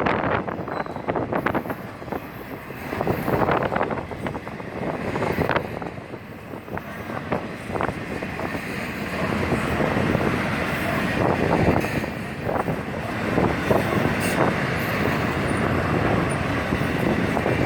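Freight train cars rolling past at close range, a steady rumble of wheels on rail with irregular knocks and clanks throughout.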